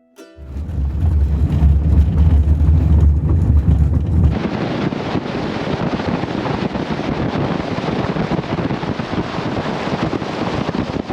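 Strong wind buffeting the microphone. It is a deep, loud rumble for about the first four seconds, then it changes abruptly to a steady, hissing rush.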